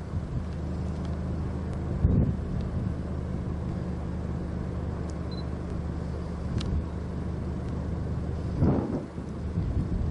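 Steady low hum of an idling vehicle engine, with wind gusting across the microphone twice, about two seconds in and near the end.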